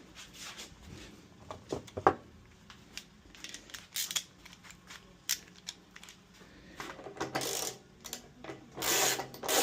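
Hand tools and metal parts being handled while working on a washing machine: irregular clicks and knocks, the loudest about two seconds in, with longer rattling stretches about seven seconds in and near the end.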